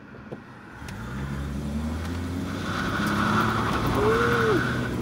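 V6 Ford Mustang engine pulling away and accelerating, heard from inside its stripped cabin, the engine note climbing steadily from about a second in. Near the end an occupant gives a short rising-then-falling "ooh".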